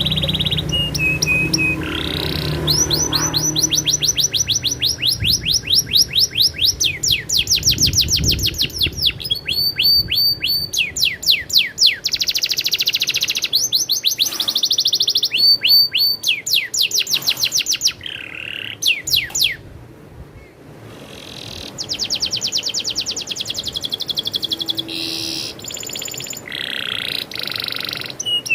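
Domestic canary singing a long, energetic song of fast trills and rolls: rapid runs of repeated high sweeping notes, with a short lull about two thirds of the way through.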